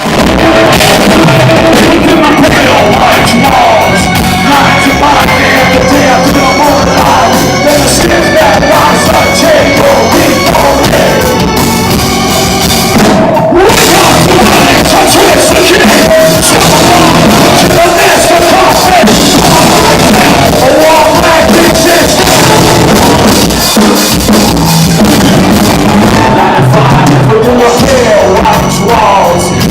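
Live rock band playing loudly, with a singer's sung and shouted vocals over drums and guitars, heard in a large hall. There is a short break in the music about thirteen seconds in.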